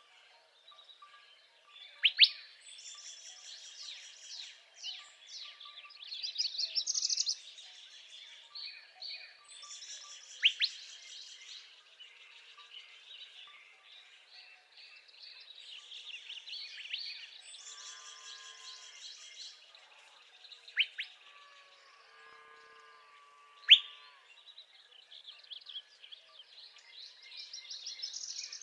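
Northern parula singing: a high, buzzy trill repeated every several seconds, among other songbirds, with a few loud, sharp single notes standing out.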